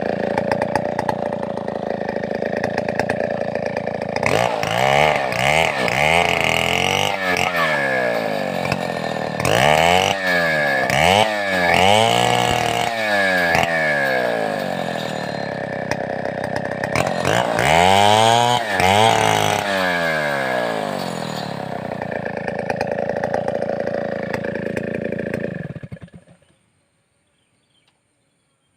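Large Stihl 070-type two-stroke chainsaw revved up and down repeatedly in several bursts, settling back to a steadier run between them. It shuts off about 26 seconds in.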